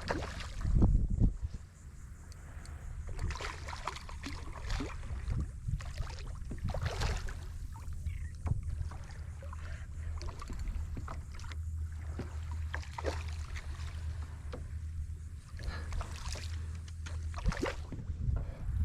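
Water sloshing and lapping against a kayak's hull, with scattered small knocks and splashes of gear and hull over a steady low rumble; a louder thump about a second in.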